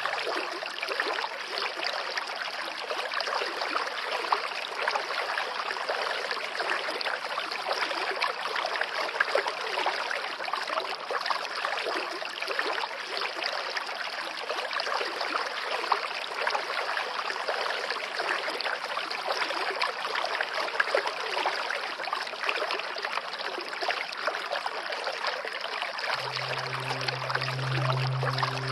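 Running water, a stream flowing and trickling, with a steady, dense splashing. Low sustained music tones come in under it near the end.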